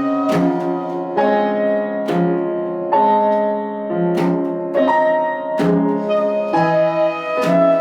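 Instrumental music led by piano, with a new chord struck a little under once a second and each one ringing on.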